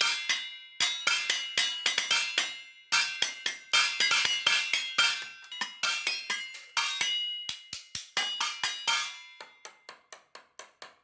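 Music made of quick struck percussion notes that ring with a clear pitch, played in a busy run that thins out and fades over the last couple of seconds.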